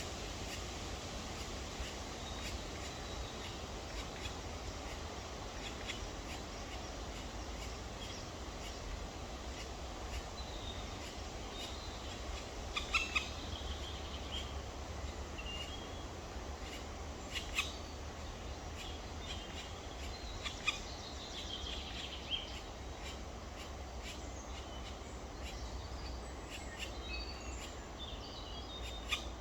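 Short high bird calls, scattered and faint, mostly in the second half, over a steady low rumble and hiss, with a few sharp clicks.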